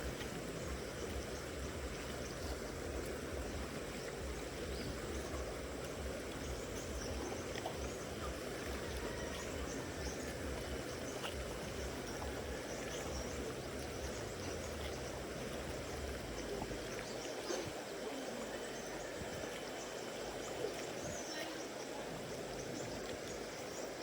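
Steady rushing of a river or stream flowing, with a low rumble under it that drops away about seventeen seconds in.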